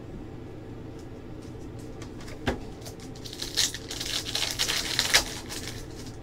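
Trading card packs and cards being handled: a single knock about two and a half seconds in, then a couple of seconds of crinkling and rustling of foil wrappers and cards, over a steady low hum.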